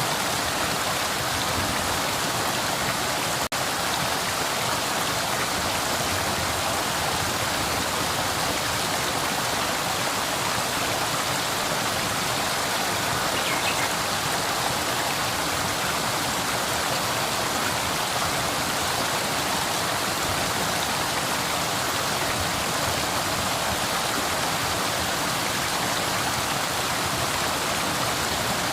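Flowing river: a steady, even rush of water, with a momentary drop-out about three and a half seconds in.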